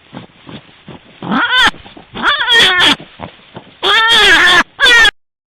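A domestic cat meowing loudly four times in drawn-out, wavering yowls. Soft short grunts come before the meows, in about the first second.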